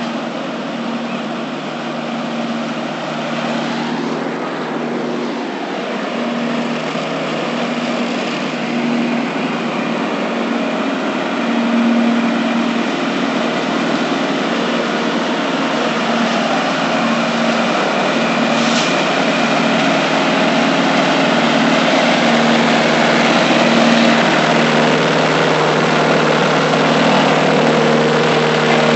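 Vehicle engine running steadily, growing gradually louder as it approaches.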